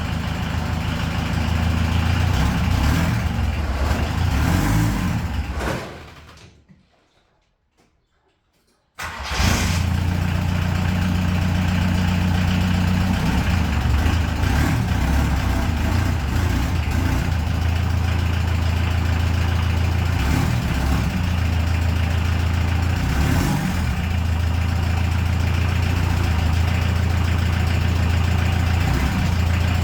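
VW Golf MK2 GTD's four-cylinder turbodiesel engine running steadily on its first start after restoration. The sound fades to near silence about six seconds in, then comes back abruptly about three seconds later and runs steadily to the end.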